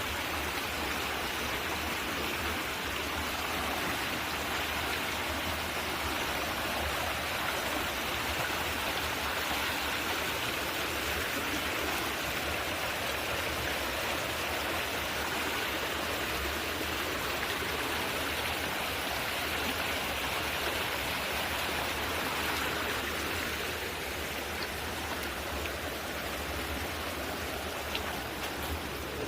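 Valley stream flowing: a steady rush of running water.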